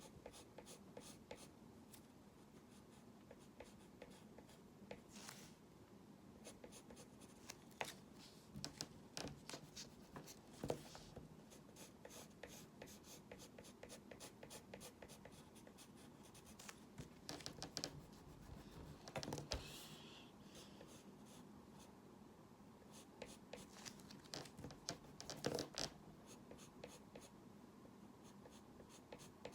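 Faint scratching and tapping of a pen drawing lines, short strokes coming in busier clusters a few times.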